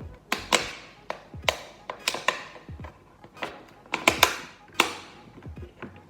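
Irregular sharp taps and clicks, about a dozen over several seconds, from kitchen handling while eggs are being separated.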